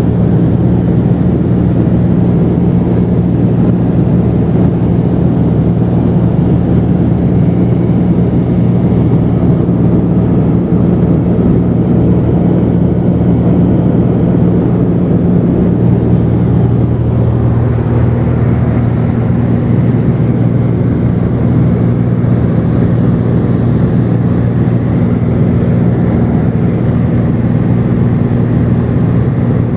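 Cessna 210's single piston engine and propeller droning steadily in flight. The engine's note shifts a little over halfway through.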